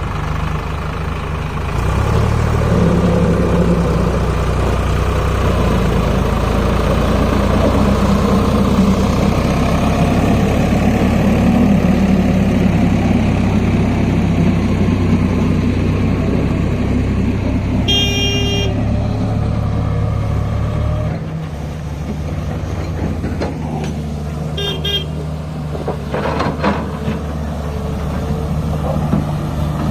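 Tractor's diesel engine running loudly, easing off a little after about twenty seconds. A vehicle horn sounds briefly near the middle, and a shorter toot comes a few seconds later.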